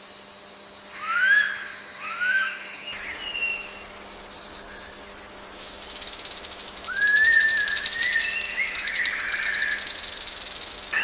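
Bird calls in forest ambience: two short rising whistles about a second apart, then a longer warbling phrase about seven seconds in. From about halfway through, a fast insect trill rings high and steady underneath.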